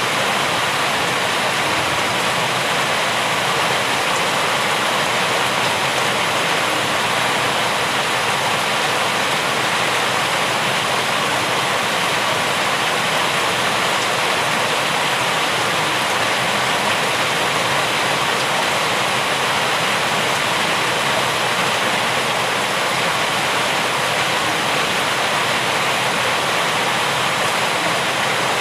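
Steady, unbroken rain noise, an even hiss with no individual drops or other events standing out.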